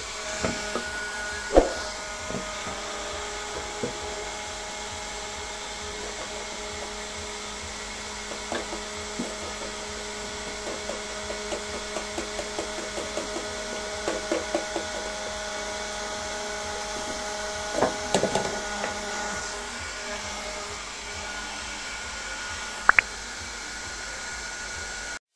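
Homemade DC-motor vacuum cleaner running with a steady whine, with scattered clicks and small rattles over it; a sharp knock comes about a second and a half in and a cluster of clicks around eighteen seconds.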